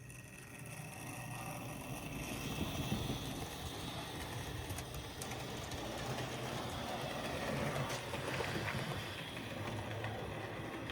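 Model steam locomotive starting off and running along its track, its small electric motor giving a steady whir with a low hum.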